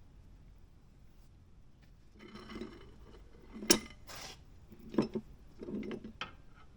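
Metal clinks, rattles and scrapes of hand tools and steel parts being handled during front-suspension work, with three sharp clinks from about three and a half seconds in.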